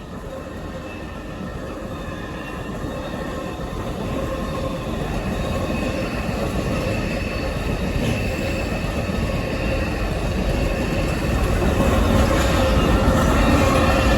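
Amtrak Auto Train approaching behind its two diesel locomotives, the engines really chugging, with steady whining tones over the rumble. It grows steadily louder as the train draws near.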